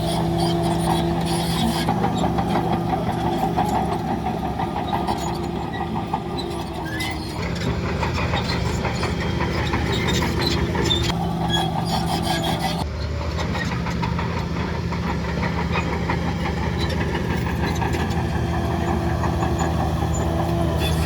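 Heavy diesel engine of earth-moving machinery running at a steady pitch, with scattered rattles and clicks over it. The sound changes abruptly twice, about seven and thirteen seconds in.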